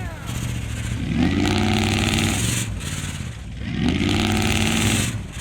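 Truck engine revving hard in repeated surges, pitch climbing, holding and falling away roughly every two to three seconds as it pulls under load.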